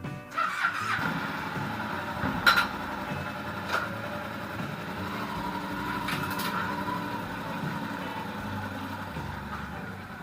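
Yamaha TDM 850's parallel-twin engine running on its newly replaced timing chain, steady after a sudden start, with a few sharp clicks about two and a half, four and six seconds in.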